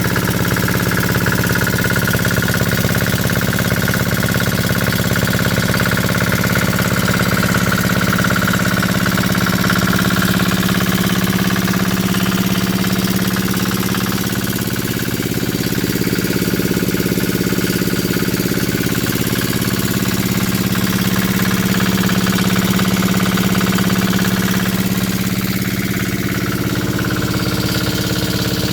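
Small diesel engine driving a Sanchin 30 power sprayer pump, running steadily at constant speed.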